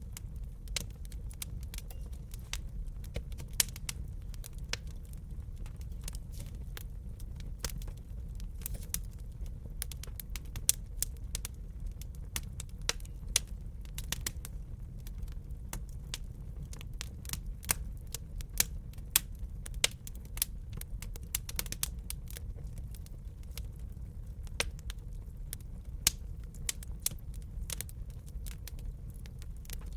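Burning wood in a fireplace crackling, with irregular sharp pops and snaps, a few of them louder, over a steady low rumble of the fire.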